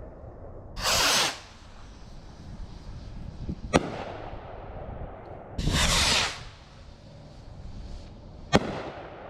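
Two Rock Catz extra-large rockets fired one after the other. Each leaves with a loud, short whoosh and bursts overhead with a single sharp bang about three seconds later.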